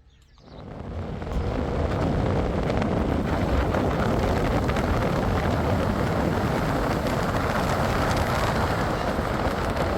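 Steady, loud rushing of a fast river, rising in suddenly about half a second in and then holding even.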